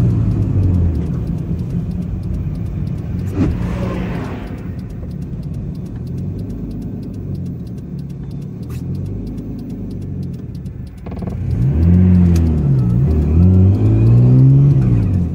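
A 1989 Nissan Laurel's RB20DET turbocharged straight-six, heard from inside the cabin as the car drives. It runs at a quieter, steadier pitch for several seconds, then about eleven seconds in it gets loud as the revs climb, dip and climb again under acceleration.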